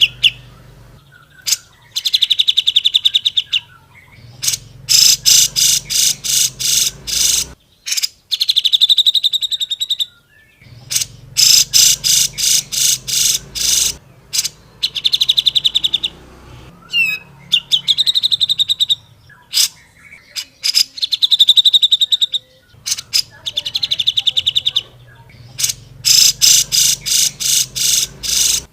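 Cucak jenggot (grey-cheeked bulbul) singing loudly in fast, rattling phrases of rapidly repeated sharp notes. Each phrase lasts one to three seconds, with short pauses between them.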